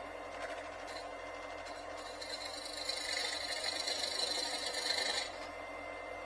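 Wood lathe running steadily, with a brighter hiss of a tool or abrasive working the spinning jam chuck from about two to five seconds in.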